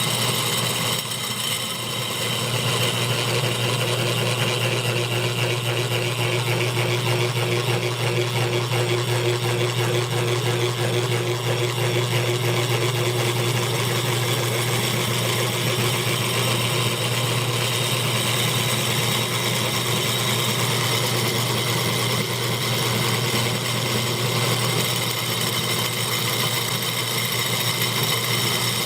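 12-volt solenoid model engine running steadily, a fast mechanical clatter over a steady low hum, easing briefly about a second in.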